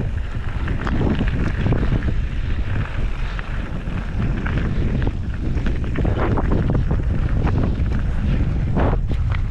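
Wind buffeting the microphone as a mountain bike rides a dirt jump trail, with tyre rumble and the bike rattling and knocking over bumps, and a sharper knock shortly before the end.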